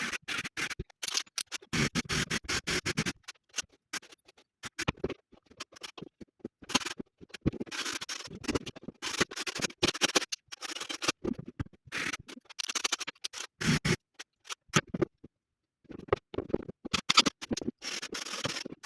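Irregular scraping and scratching strokes against a wall surface, with clicks and a short pause after about fourteen seconds, as the wall is worked over by hand in preparation for panelling.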